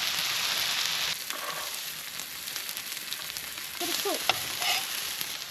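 Chicken schnitzel sizzling as it fries in a pan. The sizzle is strongest for about the first second and then settles lower, with a few light clicks about four seconds in.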